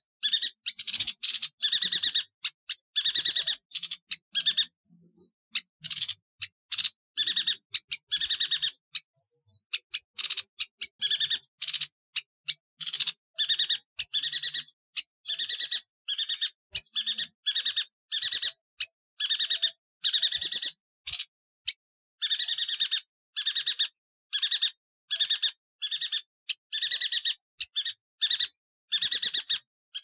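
Yuhina calling: sharp, high-pitched bursts, each a fast trill, repeated about once or twice a second with brief pauses.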